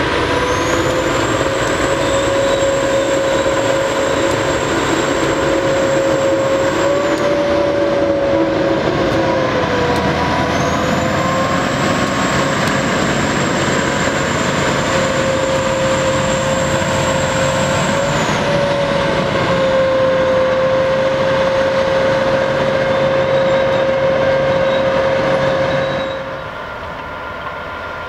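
Work train passing: a GREX track-maintenance locomotive running and hauling wagons loaded with rail, with a steady whine and a high thin tone that fades out and comes back twice. The level drops near the end.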